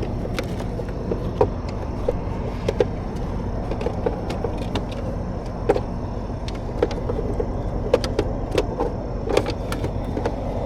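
Scattered metallic clicks and clinks of tie-down strap hardware being handled, over a steady low vehicle rumble.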